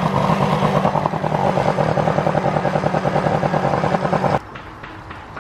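Johnson outboard motor running at a fast, steady idle with a rapid even pulse, then cutting off suddenly about four seconds in. The high idle is what the owner puts down to the motor running out of the water.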